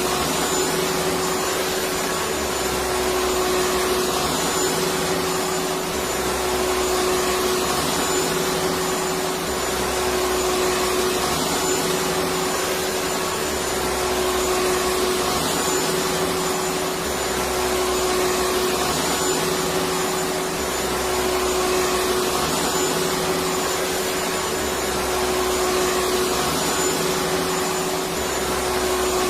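Electric vacuum cleaner running steadily: an even rushing air noise over a constant motor tone, with a low hum that swells and fades every three to four seconds.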